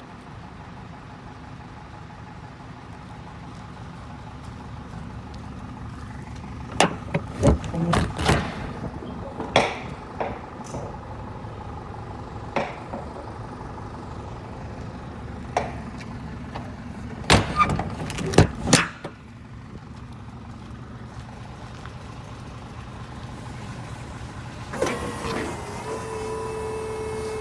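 Isuzu Forward truck's diesel engine idling steadily, with two clusters of sharp knocks and clunks partway through. Near the end a steady whine starts up over the idle.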